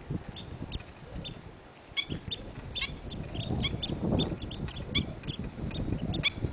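Birds chirping in many short, repeated high calls over an uneven low rumble.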